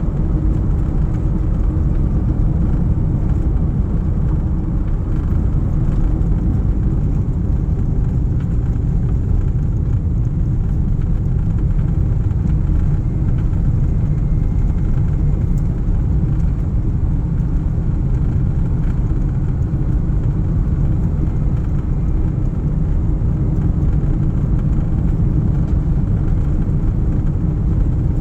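Steady low rumble of a moving vehicle heard from on board, unchanging throughout.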